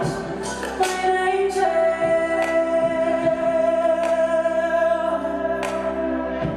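Live music: a woman's voice holds one long sung note over sustained chords and a steady low bass, with sharp percussion hits here and there.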